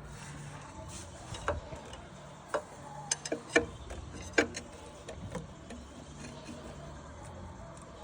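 Irregular light clicks and taps of hand tools and engine parts being handled during engine repair work, about seven in a few seconds, over a faint steady low hum.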